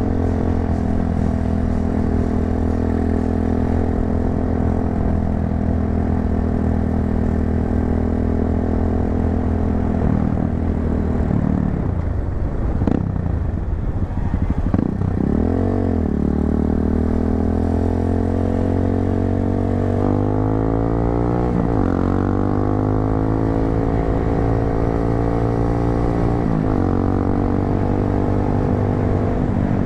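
Tekken 250 motorcycle engine running through an aftermarket muffler while riding, at a steady pitch. About ten seconds in it drops in pitch as the bike slows, then revs back up in a series of rising climbs before settling at a steady cruise.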